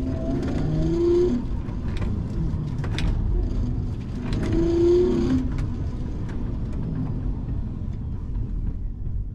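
Hyundai Genesis Coupe 3.8's V6 engine being driven hard on an autocross lap, revving up and easing off twice: about a second in, and again around five seconds in.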